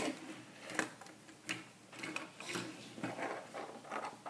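Lego plastic pieces clicking and clattering in the hands as a part is put back into a Lego model, with irregular small clicks and knocks.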